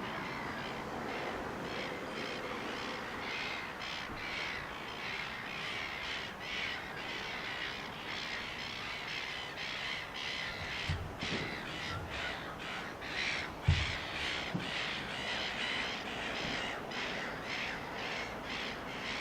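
Crows cawing over and over in quick runs of short calls, with a few low thumps in the second half.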